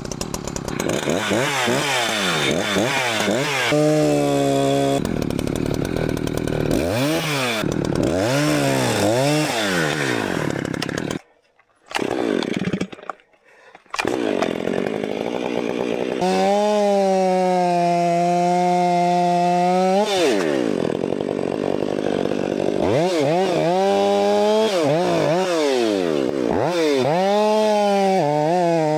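Two-stroke gas chainsaw bucking firewood: the engine revs up and drops back again and again, holds a steady high pitch through a longer cut, and cuts out twice briefly near the middle.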